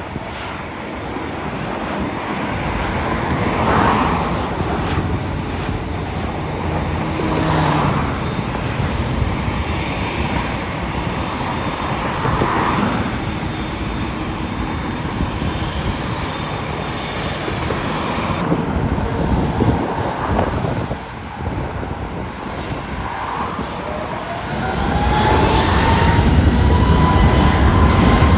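Jet airliner noise with road traffic passing by, several vehicles swishing past. Near the end the jet grows louder, its engines giving a whine that rises in pitch.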